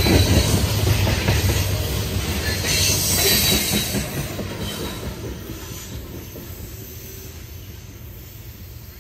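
Loaded CSX coal hopper cars rolling past, their wheels rumbling and clacking over the rails, with a brief high wheel squeal about three seconds in. The sound fades steadily as the last car moves away down the track.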